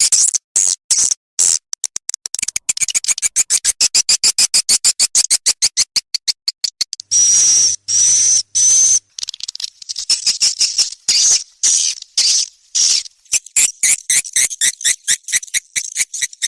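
Swiftlet lure call recording: rapid trains of high clicking chirps from swiftlets, with three short, high whistled chirps about halfway through. It is a call track played in a swiftlet house to draw birds in to roost and nest.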